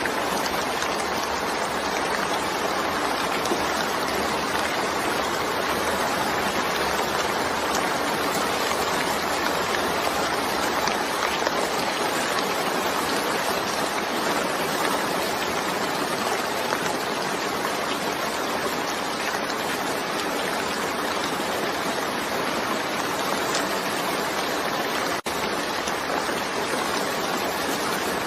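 Steady rainfall, an even, dense hiss of drops that holds constant, with a momentary dip in level about 25 seconds in.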